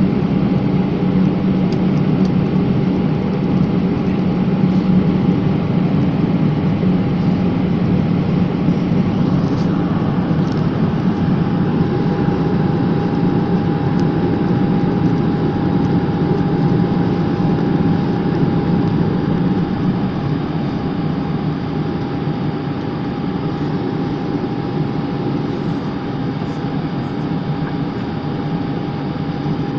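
Steady drone of an airplane in flight, heard from inside the cabin. Engine and airflow noise runs unbroken, with a steady tone held through it. It eases slightly in level about two-thirds of the way in.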